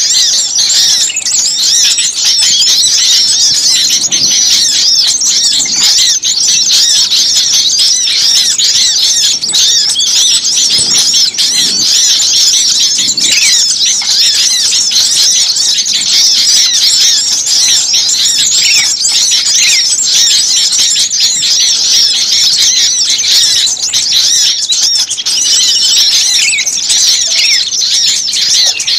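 Dense, unbroken chorus of many small songbirds, a bird-lure recording of busy, agitated calls. The high-pitched chirps and twitters overlap thickly at a steady level.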